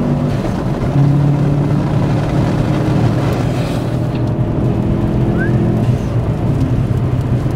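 Subaru Impreza WRX's turbocharged flat-four engine running under way, heard from inside the car over road noise. It drops out briefly just after the start and comes back louder at about one second, then holds a steady note.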